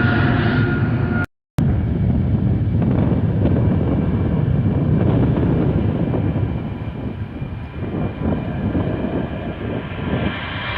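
Jet airliner engines on a takeoff run: a loud, steady, low rumble. It cuts out for a split second about a second in, eases off somewhat in the second half, then builds again near the end.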